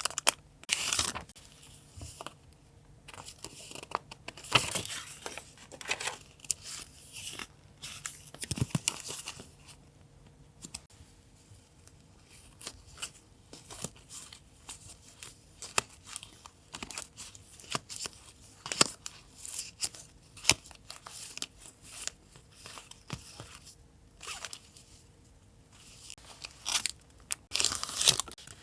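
Paper being handled, torn and cut: irregular bursts of rustling and tearing with scattered sharp clicks and snips.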